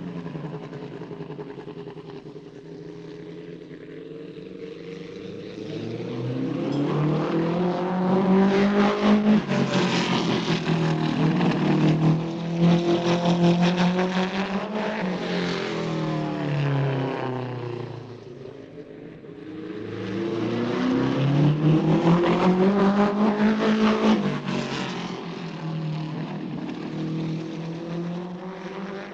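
A vehicle engine speeding up and slowing down. Its pitch and loudness climb twice, dipping between the two climbs about two-thirds of the way through.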